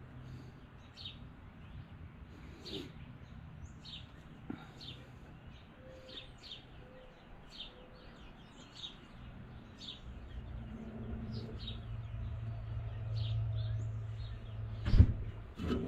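Small birds chirping over and over in short high calls, with a low hum swelling up in the second half. Near the end comes a sharp knock, the loudest sound, followed by a smaller one.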